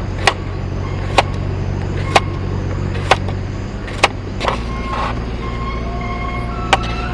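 Steady low hum of a running vehicle engine, with sharp ticks about once a second. The hum changes pitch about four and a half seconds in, and the ticks stop there.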